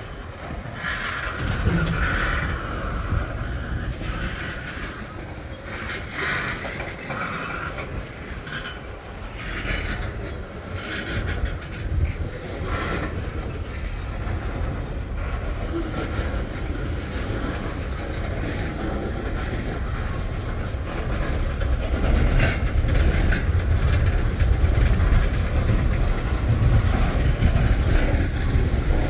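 Freight train cars rolling past: a steady low rumble of wheels on the rails, with higher clanks and squeals coming and going. It grows louder over the last several seconds.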